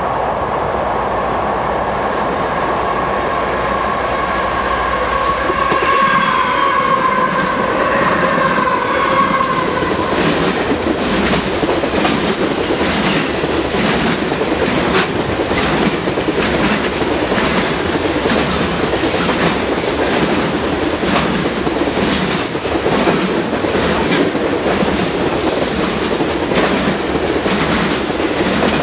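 Union Pacific diesel locomotive passing close by, then a freight train of tank cars and covered hoppers rolling past, its wheels clicking steadily over the rail joints. A drawn-out high tone sounds through the first ten seconds or so, then gives way to the clicking.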